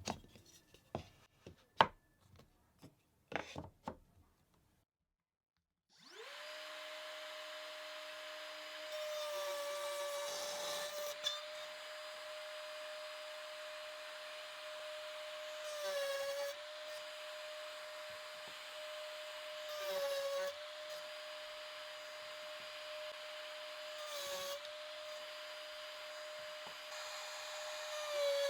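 A few wooden knocks and clicks, then a router motor starts with a quickly rising whine and runs at a steady high pitch. Five times, about every four seconds, its pitch dips briefly under a burst of cutting noise as the bit is pushed through the wood, cutting box-joint slots.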